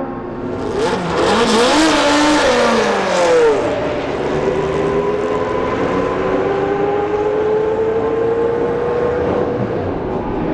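Several historic Formula 1 racing cars passing close at speed about a second in, their engine notes crossing one another and dropping in pitch as they go by. After that a single engine note rises slowly and steadily as a car accelerates.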